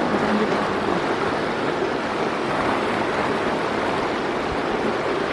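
Steady rush of flowing water in an irrigation channel.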